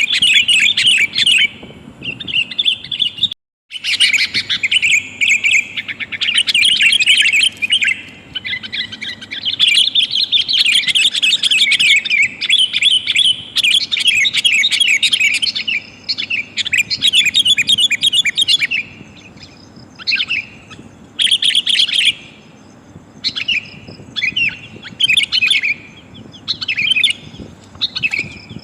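Sooty-headed bulbuls (kutilang) calling in rapid, busy chattering phrases, with a brief total silence about three and a half seconds in and more broken-up phrases in the second half. Used as a lure call, sold as a female calling to males.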